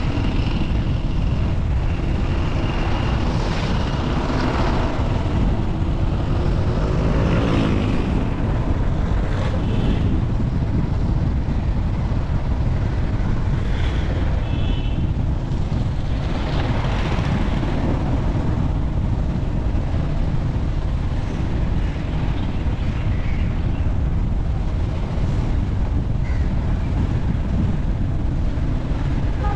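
Steady road noise from a moving vehicle on a drive: a dense low rumble of engine and tyres, with wind on the microphone. A few louder swells rise and fade, around four, eight and seventeen seconds in.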